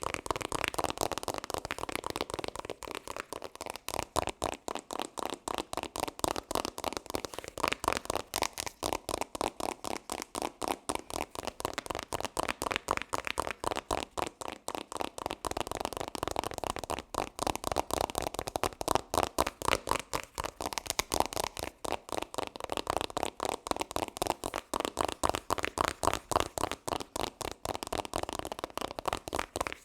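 Fast ASMR trigger sounds: a quick, even run of sharp clicks, many a second, that keeps going without a break.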